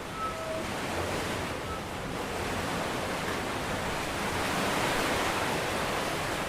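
Ocean surf washing ashore, a steady rush that swells slowly and then eases.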